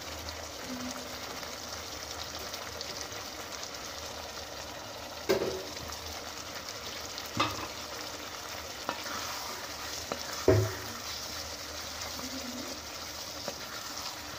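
Mutton and gravy sizzling steadily in a pot as the liquid cooks down, with several sharp knocks of a utensil against the pot, the loudest about two-thirds of the way through.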